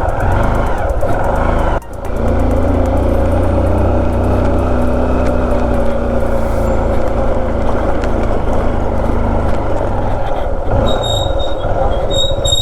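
Motorcycle engine running steadily while riding, with road and wind rumble, briefly dropping about two seconds in. Thin high squeals come in near the end.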